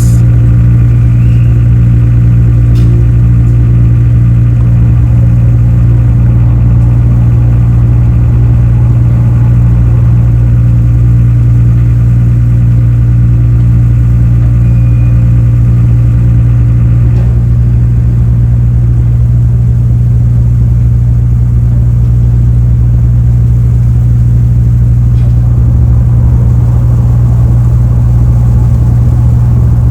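Car ferry Furutaka's diesel engines running with a steady low drone.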